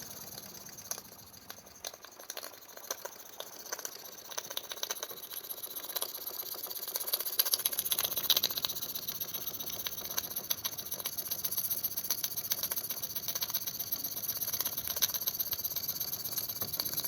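Small live-steam model engine running, its fast light chuffing clicks riding over a steady hiss of steam. It picks up speed and loudness over the first several seconds, then runs even and steady.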